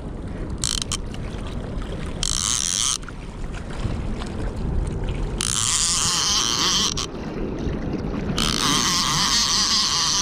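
Rushing floodwater of a swollen river with wind buffeting the microphone, a steady hiss whose higher-pitched part swells and fades several times.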